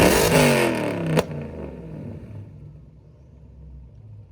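A car engine revved hard once, its pitch falling away over about a second, with a sharp pop as it drops. It then settles to a low, steady idle.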